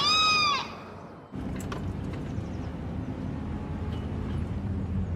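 A short whistled call that rises and falls, then, from about a second in, a car engine running with a steady low hum.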